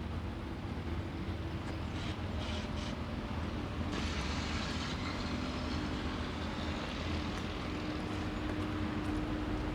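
Steady low rumble of city traffic, with a faint steady engine hum coming in about halfway through.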